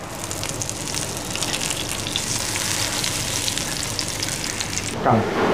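Mutton galouti kebab patties sizzling and crackling steadily in ghee in a nonstick frying pan over a low gas flame, with a red silicone spatula moving in the pan as the patties are turned.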